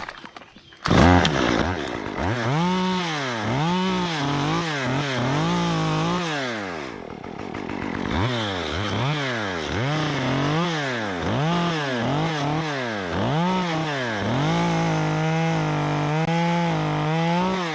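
Stihl MS 194 T top-handle chainsaw, a small two-stroke fitted with a 1/4-inch pitch chain conversion, comes up to speed about a second in. The throttle is then revved up and down over and over, and held at high revs for a few seconds near the end.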